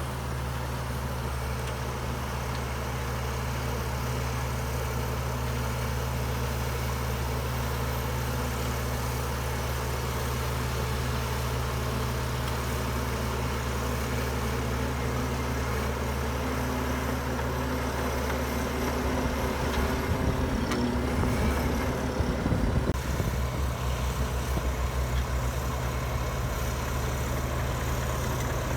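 Heavy diesel engine of earthmoving machinery running steadily with a low drone. About two-thirds through it grows louder and rougher for a few seconds, as under heavier load, then settles back.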